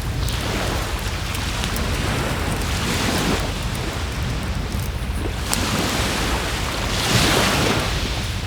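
Sea waves washing onto the shore in slow swells, with the scattered sharp crackles of a wood campfire burning close by.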